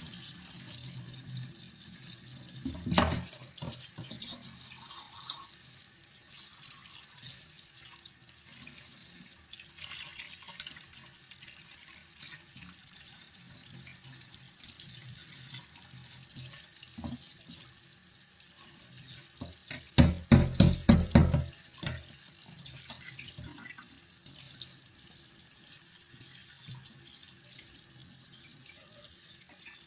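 Water running and trickling while a boiler's condensate pipe is flushed to clear a blockage. There is a loud burst about three seconds in, and a quick run of loud knocks about two-thirds of the way through.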